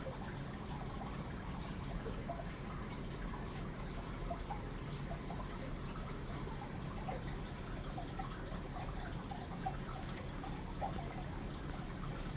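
Aquarium water trickling and dripping steadily, with many small bubbling drips over a low steady hum.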